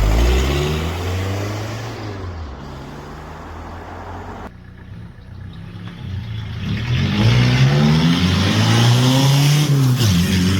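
Volkswagen Golf Mk3 diesel engine being revved: a rev dies away at the start and the engine settles lower, then it is revved up again about seven seconds in and falls back near the end.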